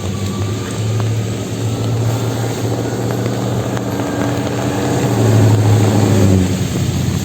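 Street traffic in the rain: a motor vehicle's engine running close by, with a steady hum that grows loudest about five seconds in and then eases off, over the hiss of rain and wet road.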